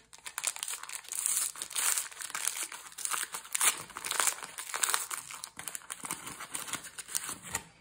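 Foil trading-card packet being torn open and crinkled by hand, a continuous irregular crackling of the wrapper.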